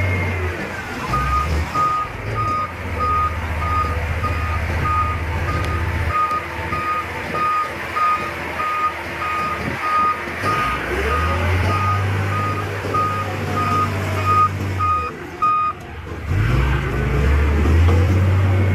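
Heavy diesel machinery running, its engine note shifting with load. A reversing alarm beeps about twice a second and stops about three seconds before the end.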